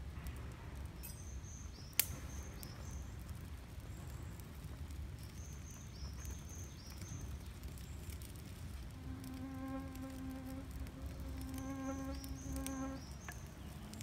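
A flying insect, such as a fly or bee, buzzes close by for several seconds in the second half, breaking off briefly once. Short, high chirping calls come in three quick clusters throughout, and there is a single sharp click about two seconds in, over a steady low rumble.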